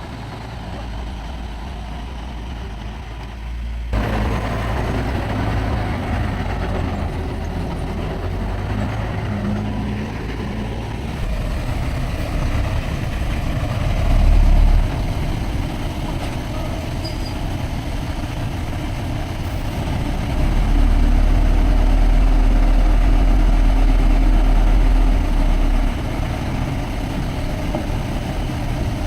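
Diesel engine of heavy earthmoving machinery running, growing louder about four seconds in. There is a brief surge around the middle and a louder stretch of about five seconds near the end.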